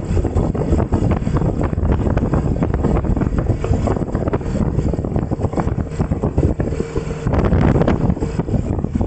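Heavy wind buffeting on the microphone: a loud, rough rumble with constant gusty crackling.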